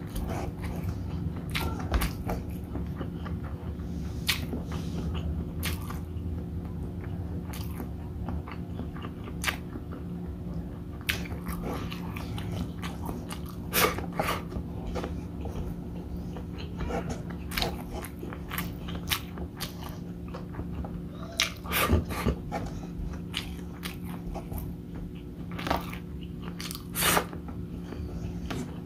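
Close-miked chewing of rice and sausage, with wet smacks and clicks of lips and tongue scattered throughout, over a steady low hum.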